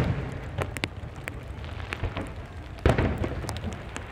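Aerial fireworks shells bursting over steady rain: the rumble of one burst fades at the start, a few sharp crackling pops follow, and a fresh boom hits about three seconds in and dies away.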